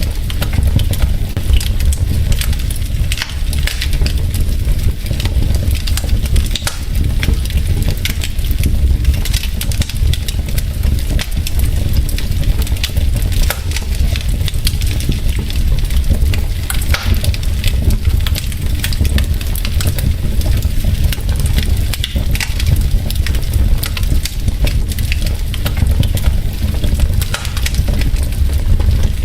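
Wood fire burning in a fireplace, logs crackling with many quick irregular pops over a steady low rumble.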